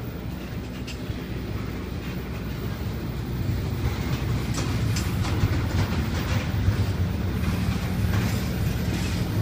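Slow-moving Florida East Coast intermodal freight train's loaded well cars rolling past: a steady low rumble of steel wheels on rail with scattered clicks and clanks, growing louder about three seconds in.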